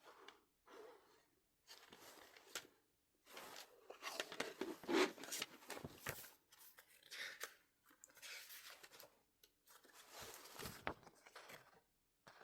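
Album packaging being torn open and handled by hand: a run of irregular tearing and crinkling rustles, loudest about five seconds in.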